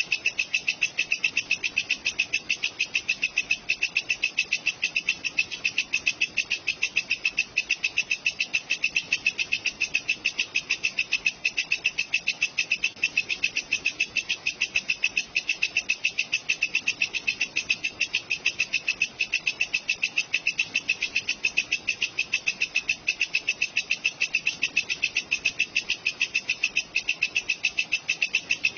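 Walang kecek katydid stridulating: a steady, unbroken run of high, raspy pulses, about four or five a second.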